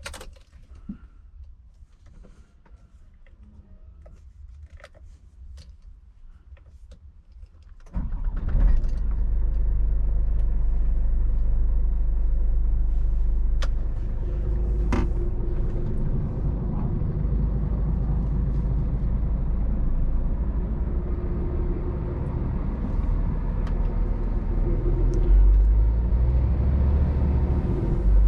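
Faint clicks and knocks. Then, about eight seconds in, the Scania R500 truck's diesel engine starts suddenly and settles into a loud, steady, low idle rumble.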